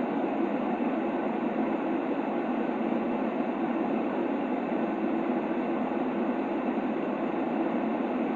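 White noise for sleep, a constant, unchanging whoosh that is weighted toward the low-middle range, so it sounds dull rather than bright and hissy.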